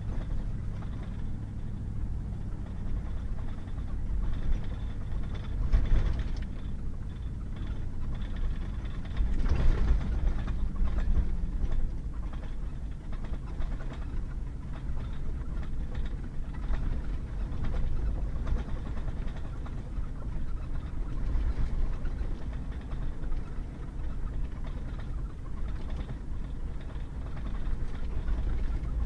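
Pickup truck driving on a wet dirt road: a steady low rumble of engine and tyres, with rougher, louder jolts about six and ten seconds in.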